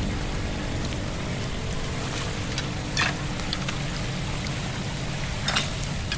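Floodwater draining away, a steady low rush of water, with a few short sharp sounds about three seconds in and near the end.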